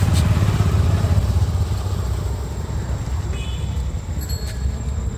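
Motor scooter engine running as the scooter is ridden, a steady low rumble that eases off a little after about two seconds.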